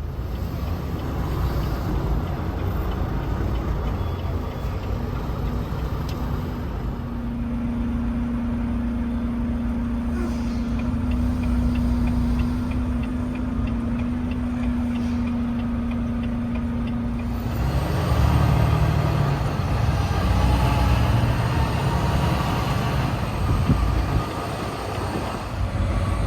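Semi-truck engine and road noise heard from inside the cab while driving, a steady low rumble. A steady hum joins for about ten seconds midway, and the rumble grows a little louder and fuller after that.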